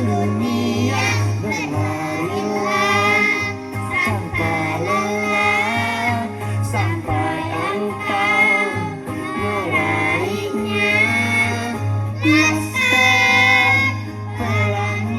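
A children's choir of third-graders singing a melody, with a steady low tone sustained underneath.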